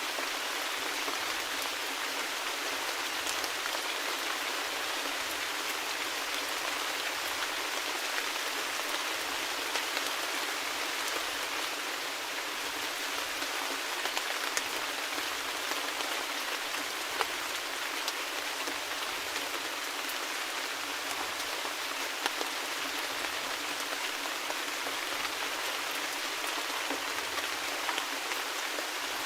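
Steady rain falling, an even hiss with scattered sharper drop taps here and there.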